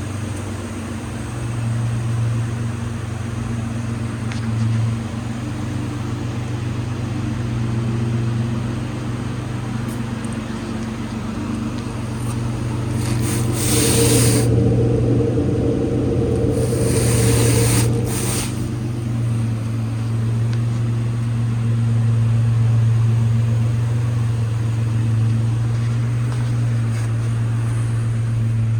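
2009 Nissan Murano's 3.5-litre V6 engine running steadily at idle, with two louder, rougher stretches of a second or two near the middle.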